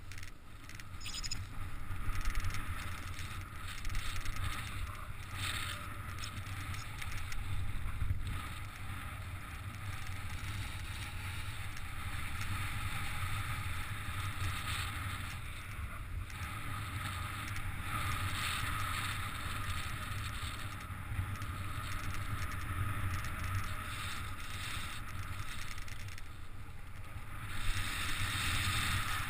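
Strong wind rushing over the camera's microphone in flight on a paraglider, a steady low rumble that swells and eases with the gusts.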